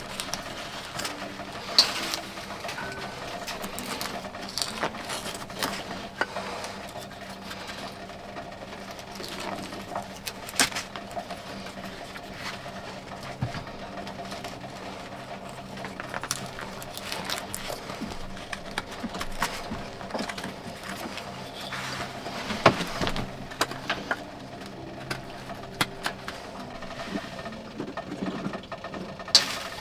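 Hand woodworking on a small wooden candlestick: irregular knocks, taps and scraping of a tool on wood, over a faint steady hum.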